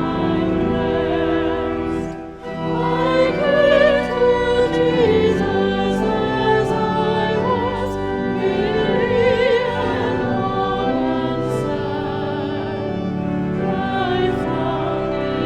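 Classical singing with wide vibrato over sustained instrumental accompaniment, with a short break between phrases about two seconds in.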